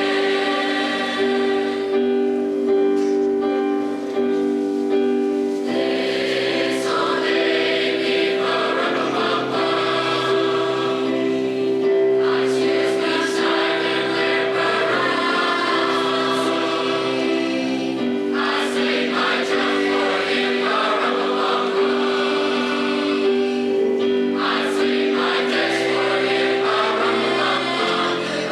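Choir singing with music, holding sustained chords that change every few seconds.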